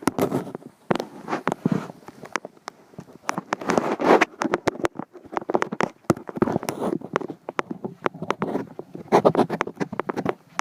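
Footsteps crunching and rustling through brush and leaves, uneven, with scattered sharp clicks and scrapes.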